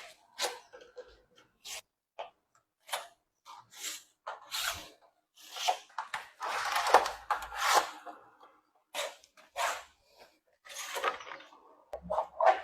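Sheet metal being handled and cut to size for a large basin: a string of irregular metallic scrapes and rattles, some brief, a few lasting about a second.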